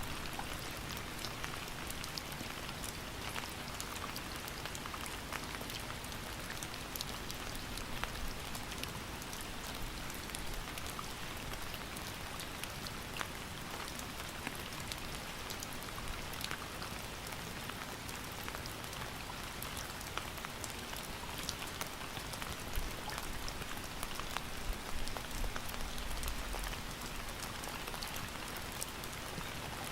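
Steady rain falling, with many individual drops pattering distinctly on a surface over an even hiss, and a few slightly louder drops here and there.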